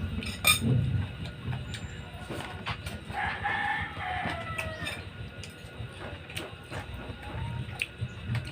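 A rooster crowing once about three seconds in, a held call that falls away at the end, over scattered sharp clicks and taps.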